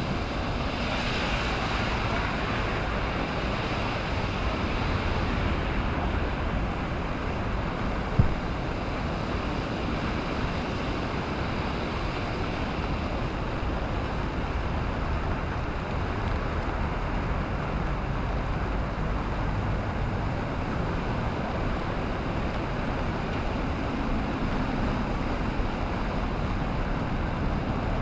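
Surf rushing and breaking on a sandy beach, a steady wash of noise with wind rumbling on a GoPro microphone. A wave swells up about a second in. There is a single sharp knock about eight seconds in.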